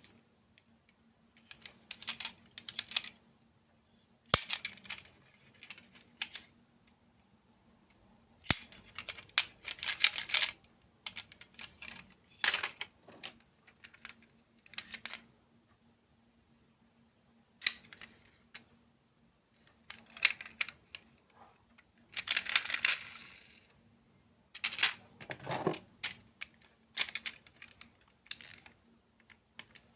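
Close-miked eating sounds: bites and crunchy, clicky chewing of desserts in irregular bursts with short pauses between, and a longer crackling crunch a little past the middle.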